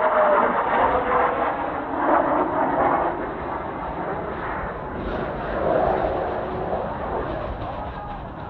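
Jet noise from Blue Impulse Kawasaki T-4 trainers flying past, with a whine that falls in pitch at the start as the jets go by. The noise swells again about six seconds in.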